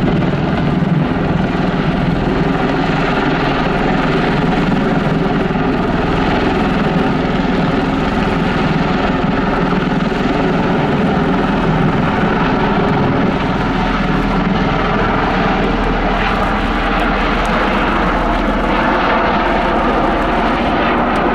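Bell Boeing CV-22B Osprey tilt-rotor flying its display: the twin Rolls-Royce AE 1107C turboshafts and proprotors make a loud, steady drone with held tones that drift slightly in pitch.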